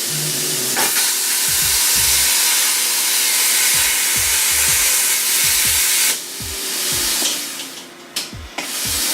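Plasma cutter cutting metal: a loud, steady hissing rush of air and arc that stops about six seconds in and starts again near the end.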